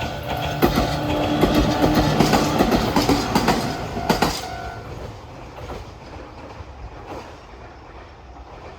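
A train running over a small railway level crossing, its wheels clacking over the rail joints, while the crossing's warning bell rings, its sound slightly cracked and distorted. The bell stops a little past halfway, and the train's sound then fades away.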